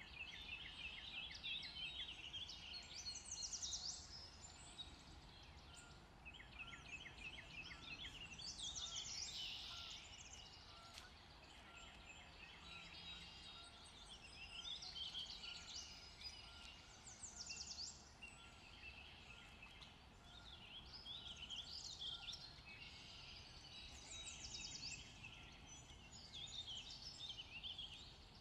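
Songbirds singing and chirping, in bursts of rapid repeated high notes every few seconds, over faint steady background hiss.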